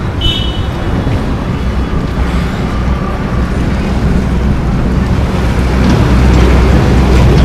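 Vehicle engine and road rumble with wind buffeting the microphone, a loud steady noise that grows slowly louder toward the end. A brief high beep sounds right at the start.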